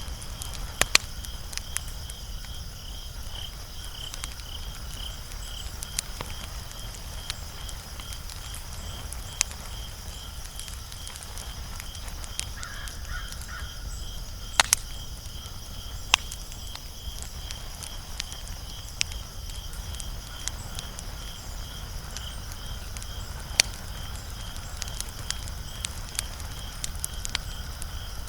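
Wood fire crackling, with scattered sharp pops over a low steady rumble. A high, evenly pulsing chirp runs underneath, and a short call sounds about halfway through.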